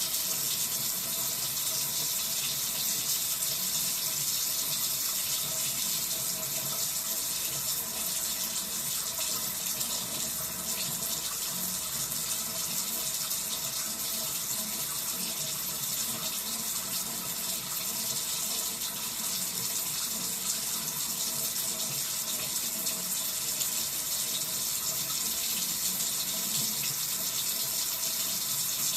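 Cold water running from a tap in a steady, hissing stream.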